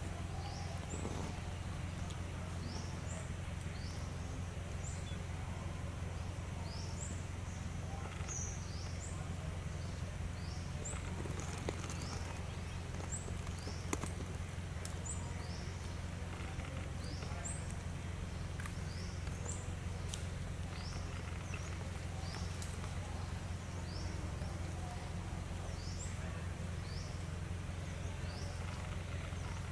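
Forest ambience: a bird repeating a short, high rising chirp about once a second over a steady low rumble, with a few faint clicks.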